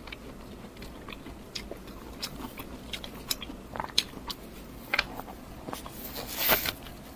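Close-miked mukbang eating sounds: a person chewing and biting food, with scattered small crunches and mouth clicks. A louder, longer bite or crunch comes near the end.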